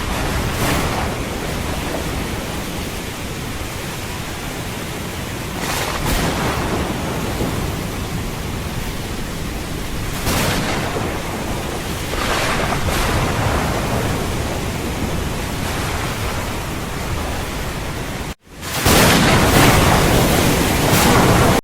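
Steady rain hiss with swelling rumbles of thunder. About eighteen seconds in, the sound cuts out for an instant and comes back louder.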